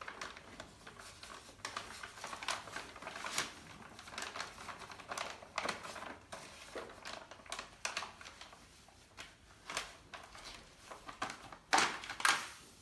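A large sheet of paper being folded and creased by hand: a run of rustles and crinkles, the loudest two near the end.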